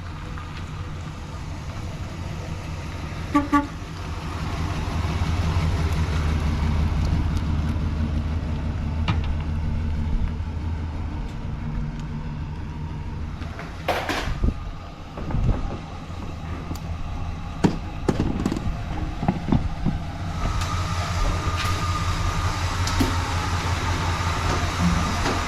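Motor vehicle engine running steadily with a low hum, with a short horn-like toot about three and a half seconds in.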